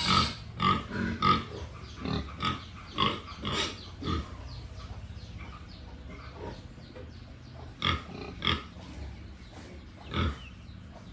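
Pigs making short grunting calls, many in quick succession over the first few seconds, then only a few scattered ones.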